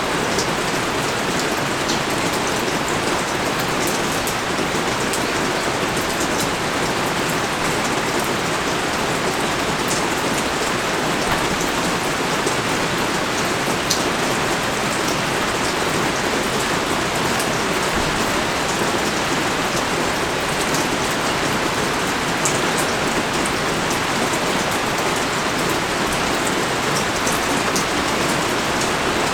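Rain pouring down steadily, with many small drop ticks scattered through it.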